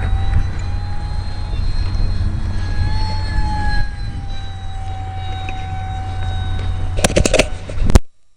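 Strong wind buffeting the microphone with a heavy rumble, over the thin whine of an ultra-micro RC airplane's small electric motor, its pitch drifting up and down as it flies. A burst of sharp knocks comes near the end, then the sound cuts out suddenly.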